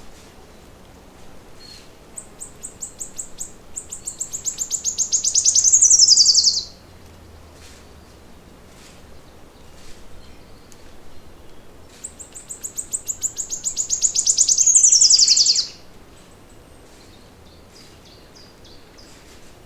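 A songbird singing the same song twice, each about four seconds long: a run of high, thin notes that speeds up and grows louder into a fast trill, ending in a quick falling sweep. Faint short chirps come in between.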